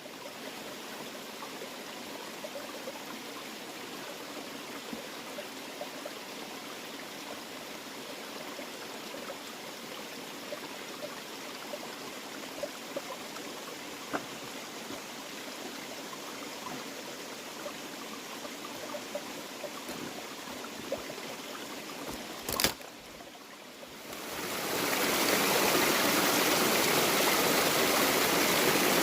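Mountain stream running over rocks, a steady rushing of water. About three-quarters of the way through there is one sharp click, a brief dip, and then the rush becomes much louder and fuller.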